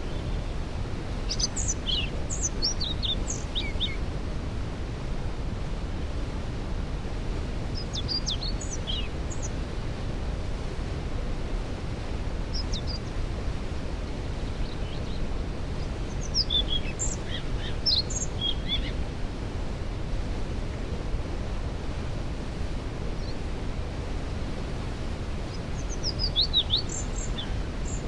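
Waterfall rushing in a steady, deep rumble, with songbirds singing short, high phrases about five times, every few seconds.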